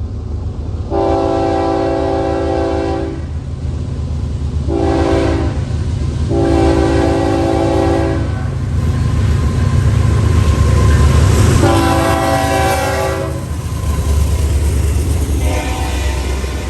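Diesel locomotive's multi-chime air horn sounding a series of blasts (long, short, long, then after a pause another long one and a fifth starting near the end) over the steady rumble of the train.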